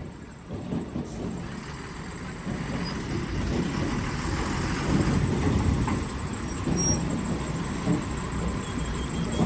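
Diesel tractor engines labouring under heavy load as they try to tow a stuck truck out; the engine noise builds about two and a half seconds in and stays loud.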